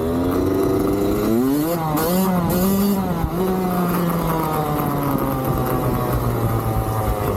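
Dirt bike engine revving up over the first two seconds, its pitch wavering with the throttle, then holding and slowly falling as it eases off.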